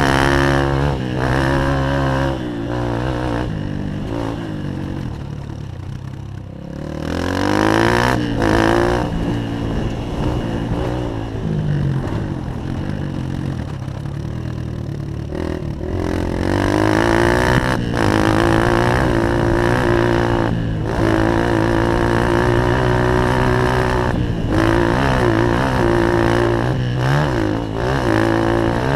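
Honda CRF150 dirt bike's single-cylinder four-stroke engine revving up and falling back again and again under hard riding, with short throttle cuts between pulls. About a quarter of the way in, the revs drop low for a couple of seconds before it pulls away again.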